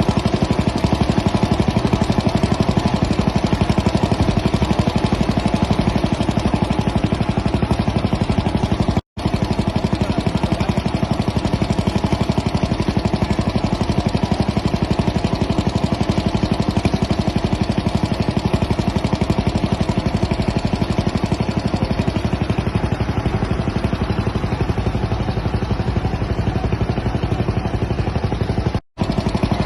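Engine running steadily with a rapid, even firing beat, close by. It cuts out completely for an instant twice, about nine seconds in and near the end.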